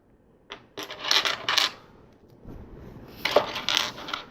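Small loose plastic LEGO pieces clattering and rattling as a hand sifts through a pile of parts, in two bursts: one about a second in, another about three seconds in.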